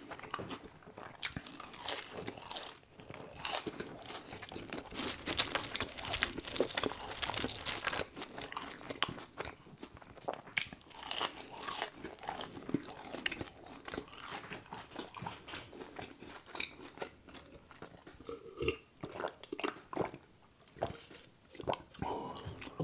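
Close-miked eating: crunchy bites and wet chewing of french fries, a dense irregular crackle of crunches that thins out and becomes more spaced in the second half.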